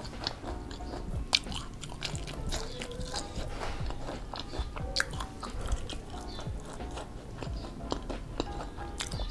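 Close-up chewing and crunching of crispy fried tempeh dipped in chilli sambal, with sharp irregular crunches scattered throughout; the loudest is about a second in.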